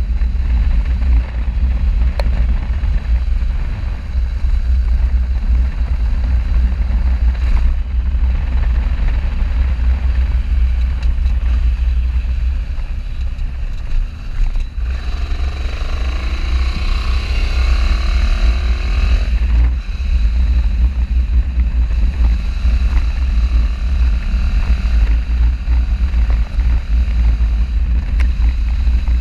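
Heavy wind buffeting on a camera microphone on a moving motorcycle, over the steady running of the motorcycle. For about four seconds midway a higher sound with falling pitch glides comes in over the rumble.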